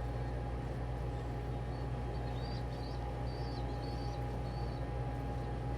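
Several faint, short, high-pitched peeps from a young pigeon (a squeaker) in the middle stretch, over a steady low hum.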